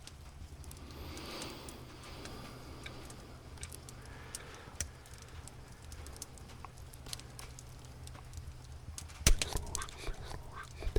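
Campfire crackling with scattered sharp pops, the loudest about nine seconds in, over a steady low cat purr.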